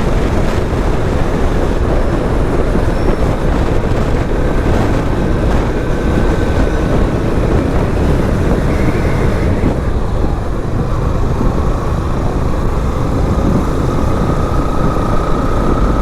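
Motorcycle riding at road speed: steady engine and road noise mixed with wind rushing over the microphone.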